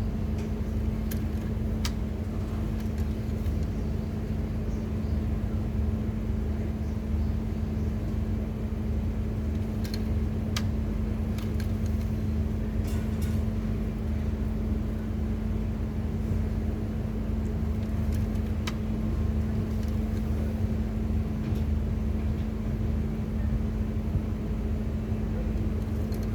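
A steady mechanical drone with a constant low hum, like an engine running at idle, with a few light clicks and taps scattered through it.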